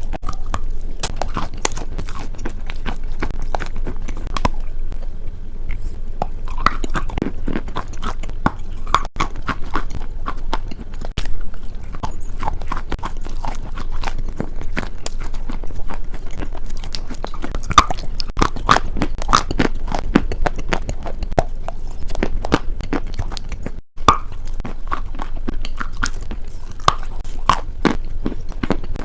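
Close-miked crunching and chewing of crunchy food, a dense run of sharp crackling bites and chews, with two brief breaks in the sound.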